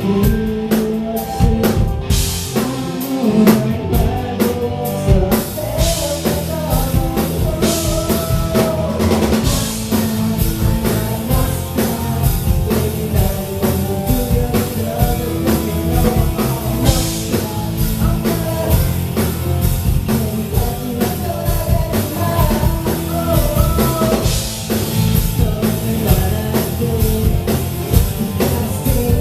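Live amplified band music with a rock drum kit and guitar, heard through a concert hall's PA, with some singing.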